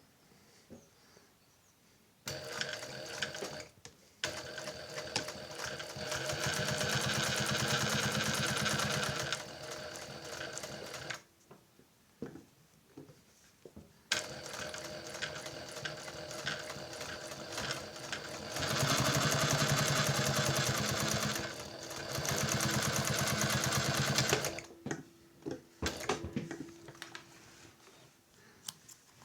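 Toyota LZ2-D530 industrial high-speed zigzag sewing machine stitching in two runs of about nine and ten seconds, each speeding up to a faster, louder stretch in the middle, with a pause of a few seconds between them. A few separate clicks follow near the end.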